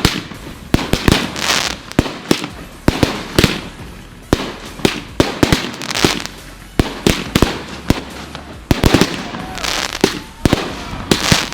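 Consumer fireworks going off in quick succession: a dense, irregular string of sharp bangs, often several a second, over crackling.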